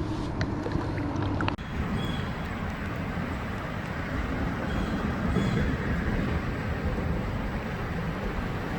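Wind buffeting the microphone outdoors: a steady, uneven rushing rumble. There are a few small clicks in the first second and a half.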